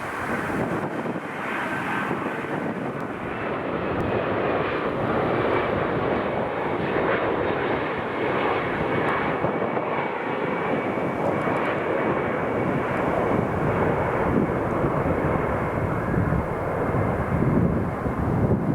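Jet engines of a Boeing 767-300 airliner running, a steady rushing roar that slowly grows louder, with a faint high whine above it.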